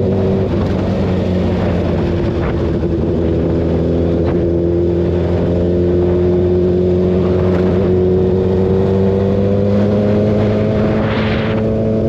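Kawasaki ZX-6R's inline-four engine running at highway speed. Its pitch drops briefly about half a second in, then rises slowly as the bike gathers speed.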